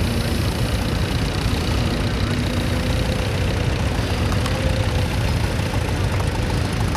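Vintage tractor engine running steadily, a low, even drone.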